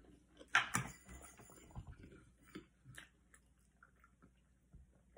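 Close-up chewing and small mouth sounds of someone eating, with a sharp clack about half a second in and a few lighter clicks after it.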